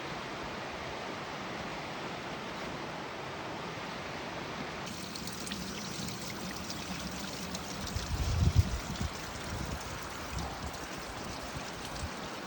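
Stream water running steadily. About five seconds in the sound turns brighter with faint ticks, and a few low thumps around eight seconds in are the loudest part.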